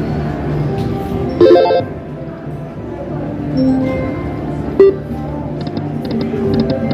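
Dancing Drums Explosion slot machine playing its game music, with a bright chime about a second and a half in, a short sharp beep near the five-second mark, and a quick run of short high beeps near the end.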